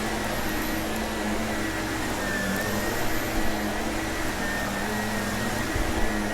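Vacuum cleaner running steadily, its motor holding an even pitch.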